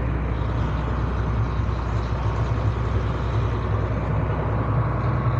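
Engine of a large motor vehicle running steadily, loud, a constant low hum under an even rumble.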